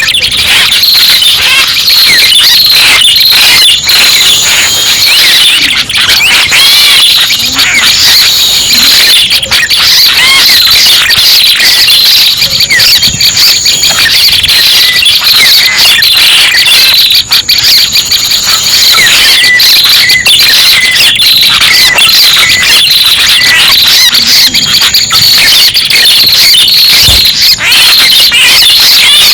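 Prenjak pala merah lure call: a dense, rapid, high-pitched chirping that never stops. A short thin high note comes back about every four seconds.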